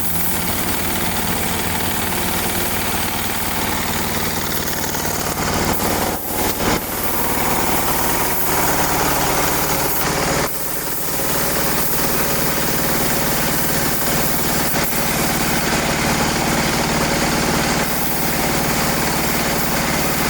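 A truck engine running steadily, with two brief dips in level about six and ten seconds in.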